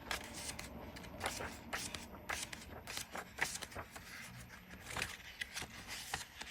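Sheets of a 6x6 patterned paper pad being flicked over one after another, each page turn a short crisp rustle, about one or two a second.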